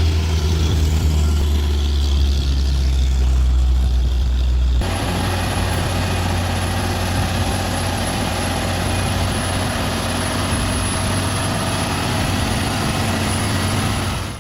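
Heavy truck engines running with a deep low rumble. About five seconds in, the sound cuts abruptly to another recording of engine noise, less deep and more even, with a thin steady high whine above it.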